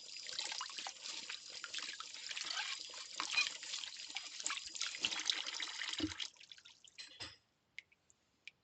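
Water running from a tap and splashing over plates being hand-washed in a sink, with small clinks throughout and a dull knock about six seconds in. The water stops about a second later, leaving a few faint clicks.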